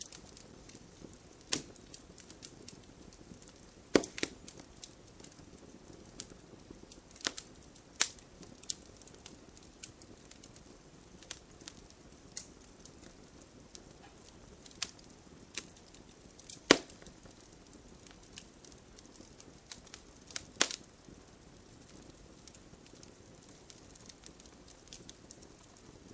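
Wood fire crackling in a fireplace: irregular sharp pops and snaps over a soft, steady hiss of burning, with a few louder cracks scattered through.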